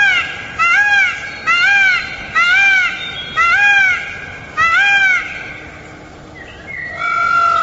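An animal or bird calling over and over: about seven short calls, each rising then falling in pitch, roughly one a second, then a short pause and one longer, flatter call near the end.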